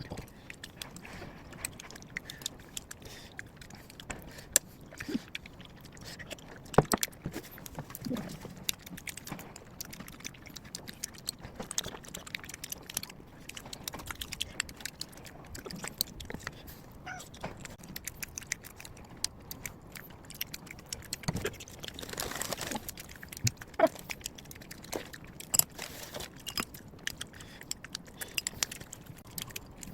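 Someone eating: chewing, with many scattered sharp clicks and clinks, as of utensils against dishes.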